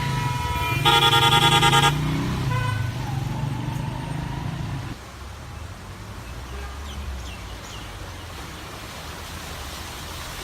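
Street traffic: a vehicle engine running, with a horn sounding loudly for about a second near the start. The level drops suddenly about five seconds in to a quieter steady traffic rumble.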